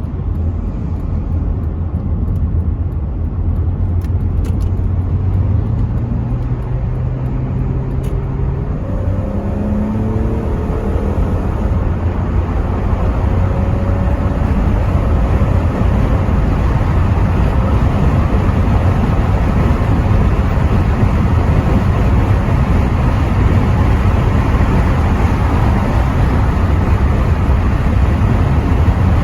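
Rover 75 V6 estate accelerating: the engine note climbs in pitch over the first dozen seconds, then a rising rush of wind and road noise through the partly open windows takes over as the car gathers speed.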